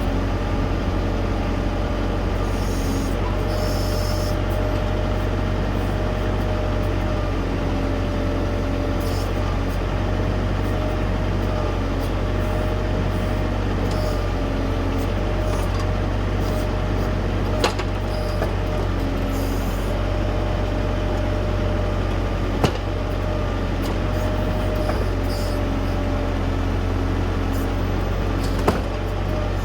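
LS U5030 tractor's diesel engine running steadily while working its backhoe, with a whine that comes and goes and three sharp knocks in the second half.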